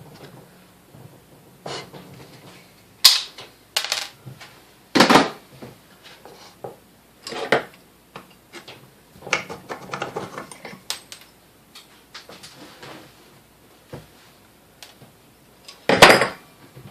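Small metal parts and tools clinking and knocking on a workbench during disassembly of a vintage Sunbeam Mixmaster, in irregular single strikes with a short run of rattling near the middle and a sharp knock near the end.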